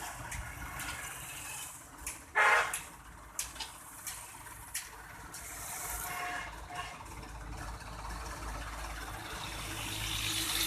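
Low rumble of vehicles with a short, loud horn beep about two and a half seconds in and a few sharp clicks or knocks around it; the rumble slowly grows louder toward the end.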